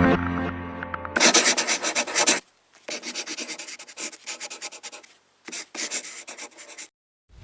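Intro music chord ending about a second in, then rapid scratchy rubbing strokes in three bursts separated by short silences.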